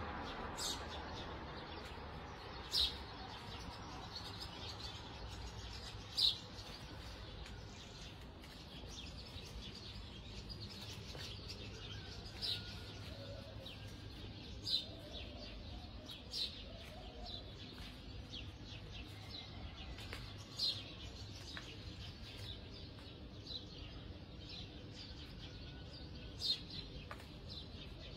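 A small bird chirping, single short calls every few seconds, over a faint steady low hum.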